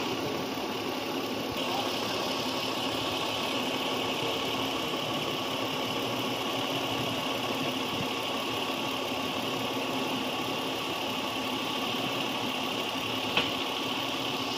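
Lexus RX300's 3.0-litre four-cam 24-valve VVT-i V6 idling steadily, with one sharp click near the end.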